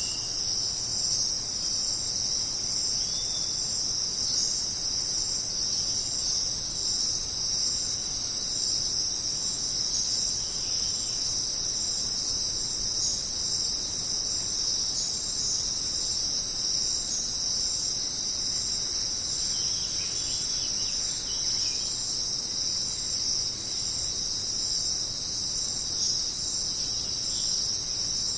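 Dense, steady chorus of jungle insects such as crickets, trilling high-pitched without a break, with a few faint short chirps now and then.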